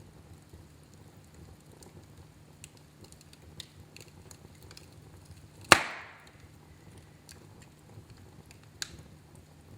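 Wood fire burning in a fireplace, crackling faintly, with one loud sharp pop a little over halfway through and a smaller pop near the end.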